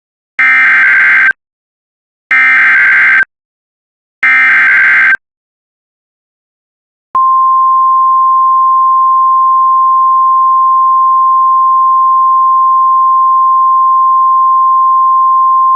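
Emergency Alert System (SAME) header: three short screeching digital data bursts about two seconds apart, followed a couple of seconds later by the NOAA Weather Radio 1050 Hz warning alarm, one long steady high tone. It announces a severe thunderstorm warning.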